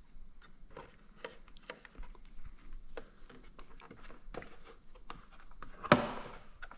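Scattered light clicks and taps of parts and tools being handled, with one louder sharp knock about six seconds in.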